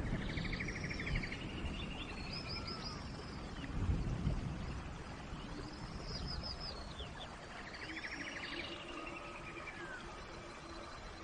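A songbird singing twice, each phrase a fast trill with high arcing whistled notes, over a steady wash of rain. A brief low rumble comes about four seconds in.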